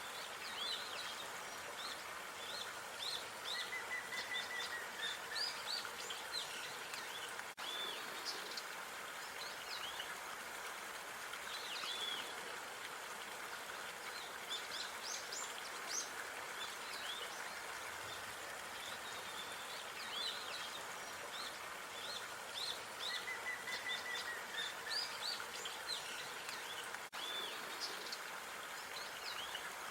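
Outdoor park ambience: small birds chirping and singing in quick, high calls over a steady wash of background noise. The same stretch of birdsong comes round again about every twenty seconds, as in a looped recording.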